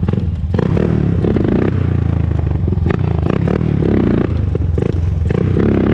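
A 2001 Honda TRX400EX ATV's single-cylinder four-stroke engine running steadily under way, with scattered clicks and rattles over it.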